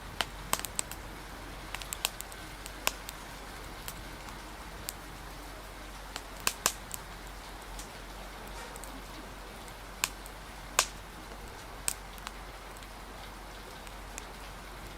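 Fire crackling with sharp, irregular pops over a steady hiss of rain.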